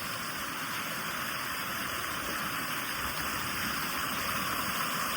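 Waterfall rushing, a steady even rush of falling water that grows slowly louder.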